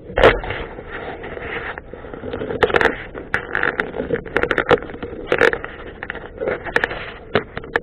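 Wind buffeting and crackling on the microphone over road and engine noise from a moving motorcycle, in irregular gusts with many sharp pops.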